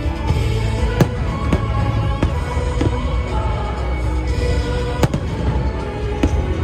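Fireworks going off in a handful of sharp bangs, the loudest about a second in and about five seconds in, over music that plays throughout.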